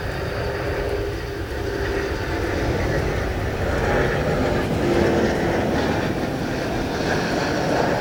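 Airliner engines running as the plane passes close, a steady rumble that swells to its loudest about four to five seconds in.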